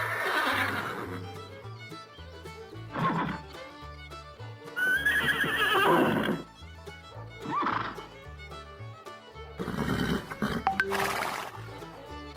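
Horse neighing and whinnying several times over background music. The first is a long whinny falling in pitch, the loudest is a long quavering whinny about five seconds in, and shorter calls come between them. The music has a steady low repeating bass line.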